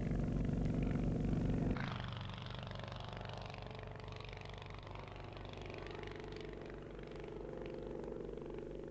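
Vintage aircraft piston engine running steadily. About two seconds in the sound cuts abruptly to a quieter engine running, which swells slightly near the end.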